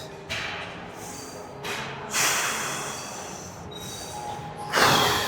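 Heavy breaths pushed out hard close to the microphone, three times, during a set of dumbbell raises, over faint gym music.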